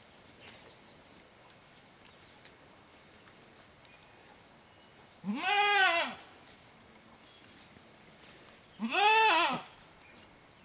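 A goat bleating twice, each call under a second long and rising then falling in pitch, about three and a half seconds apart.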